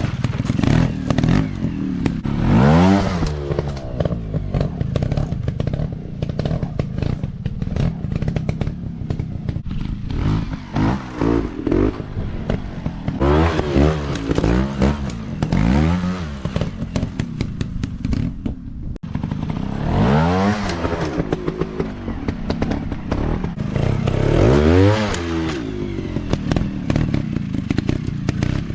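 Motocross dirt bike engines revving, the pitch rising and falling again and again in short surges over a continuous engine drone.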